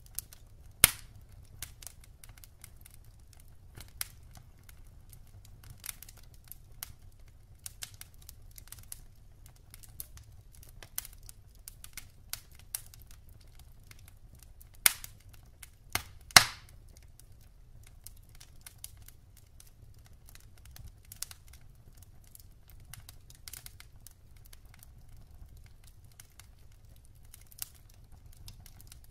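Wood fire burning in a fireplace: scattered crackling over a faint low rumble, with a few sharp loud pops, one about a second in and two close together around the middle.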